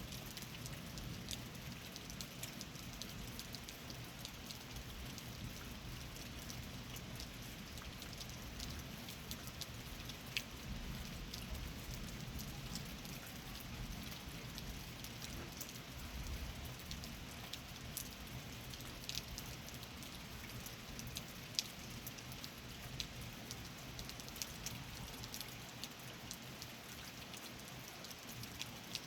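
Steady rain falling, with scattered individual drops ticking on nearby surfaces over an even hiss and a faint low rumble underneath.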